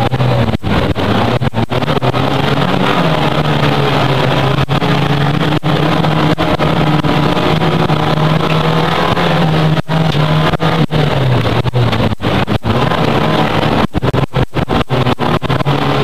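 Race car engine heard loud from inside the cabin, held at high revs with a steady note that dips briefly about eleven seconds in and picks up again. The sound cuts out for an instant many times, most often near the end.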